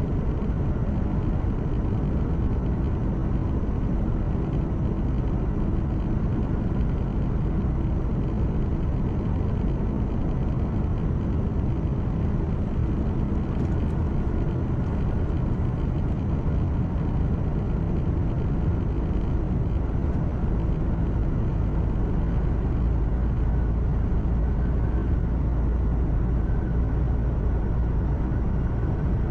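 Truck's diesel engine and tyre noise heard from inside the cab while driving: a steady low drone and rumble, with the deepest rumble growing a little stronger in the last few seconds.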